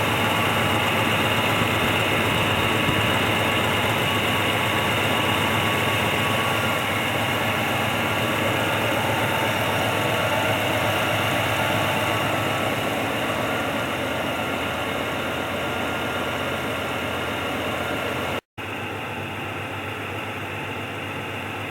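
1967 Pontiac ambulance engine running steadily at idle, with an exhaust leak somewhere underneath. The engine is not idling well. The sound breaks off for a moment about three-quarters of the way through, then carries on slightly quieter.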